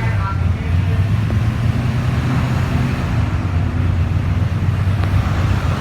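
An engine running steadily at idle, a low even hum; its pitch settles slightly lower just after the start.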